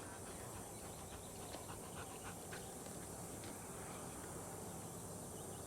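Akita dog panting softly over a steady low background noise.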